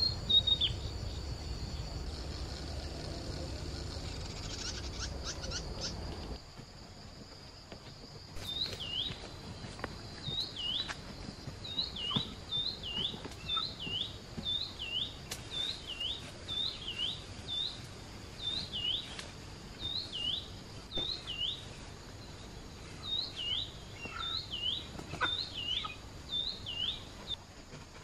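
A bird repeating a short whistled note that dips and rises, one to two a second in runs, over a steady high insect drone. A low rumble fills the first six seconds, then stops.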